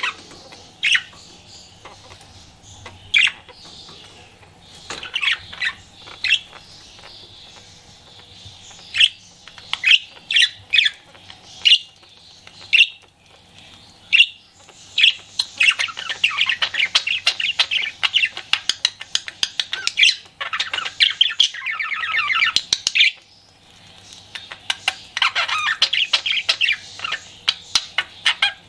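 Pet budgerigar calling: separate sharp chirps and squawks, then, about halfway through, a long run of fast, chattering warble, the flirting chatter of a budgie. The warble breaks off briefly and starts again near the end.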